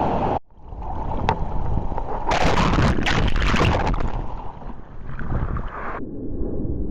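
Surf water rushing and splashing with wind buffeting the microphone. There is a loud burst of splashing about two seconds in, and near the end the sound turns dull and muffled.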